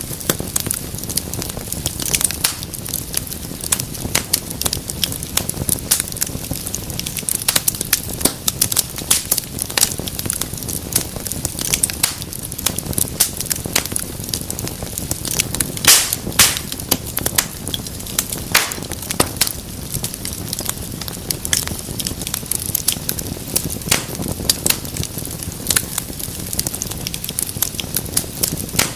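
Wood fire crackling: a steady low rush of flames with dense, irregular sharp pops and snaps, one louder pop about halfway through.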